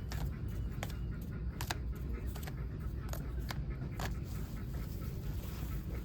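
Scattered light clicks and taps at an uneven pace over a steady low rumble.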